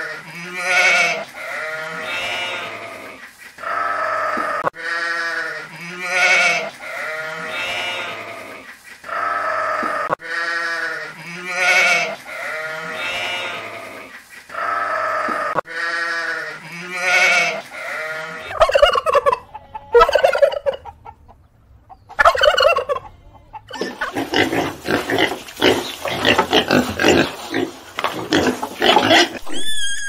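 Sheep bleating: long, wavering calls that come again about every six seconds. About eighteen seconds in, a different, rapid rattling animal call takes over until the end.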